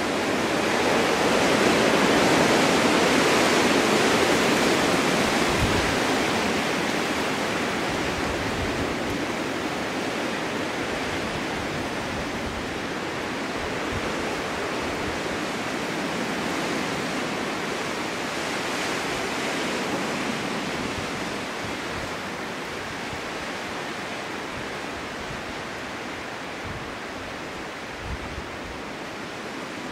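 Snowstorm wind blowing through a snow-covered forest as a steady rushing, swelling into a strong gust in the first few seconds and then slowly easing off. A few faint low knocks, one near the end.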